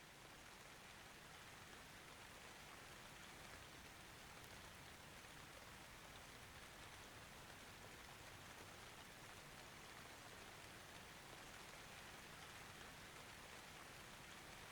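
Faint, steady rain: an even hiss of falling rain that grows very slightly louder, with no thunder.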